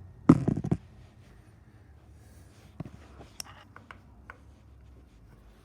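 A quick rattling clatter of metal on metal, a few clicks close together, then scattered light clicks over a faint low hum, as the lathe's compound slide and handwheels are worked by hand.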